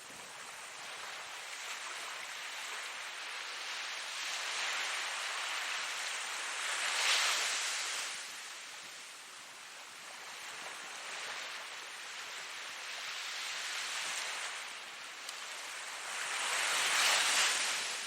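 Ocean waves breaking and washing ashore in a steady hiss that swells and ebbs, with two larger waves breaking louder about seven seconds in and near the end.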